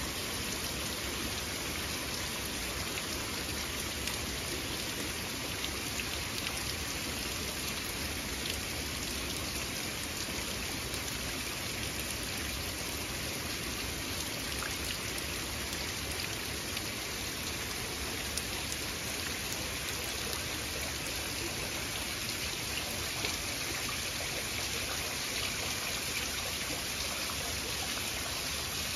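Heavy rain falling in a steady downpour, an even hiss with scattered ticks of individual drops.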